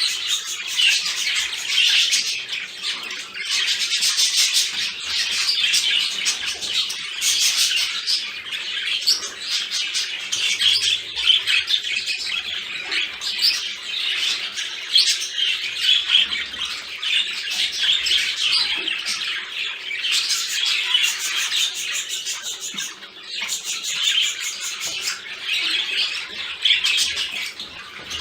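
Budgerigars chattering and warbling without a break, a dense run of quick, high chirps and sharper calls.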